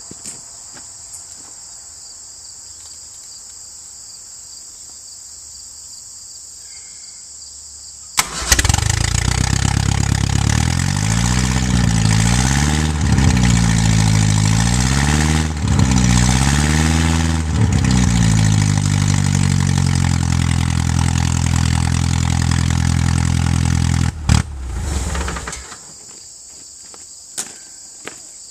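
Crickets chirping steadily. About eight seconds in, the homemade tractor's 1973 Ford Pinto 2-litre four-cylinder engine starts and runs, is revved up twice, settles to a steady run, and is shut off near the end. It kind of sounds like the ignition timing is still off a little.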